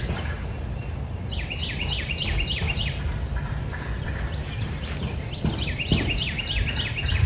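A songbird singing two runs of quick, repeated notes, each sliding downward, over a steady low rumble.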